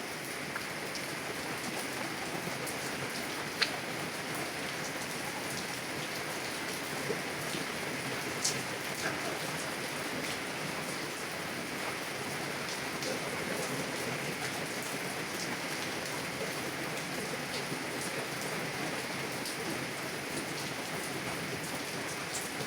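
Heavy rain falling steadily on a car, a constant hiss with now and then a single louder drop striking the glass.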